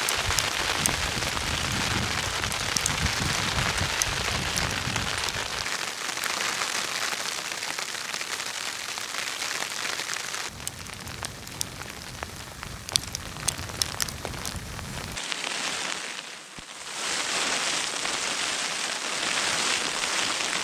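Hail pattering on a tent's fabric with many sharp ticks, thickest a little past the middle, while gusts of wind rumble against the tent and microphone and then ease off.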